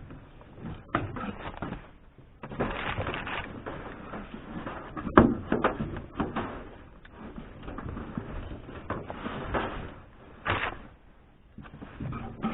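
Hand work on a car's interior roof trim: irregular rustling and scraping of panels and lining with scattered sharp clicks and knocks, the loudest knock about five seconds in.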